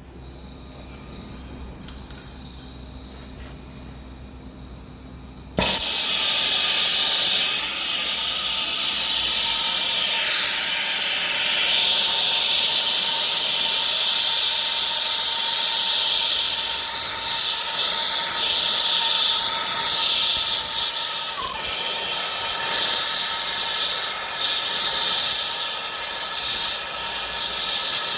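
Gas blowtorch heating a fluxed copper pipe fitting for soldering. About five seconds in the flame lights with a sudden whoosh, then burns with a loud, steady hiss.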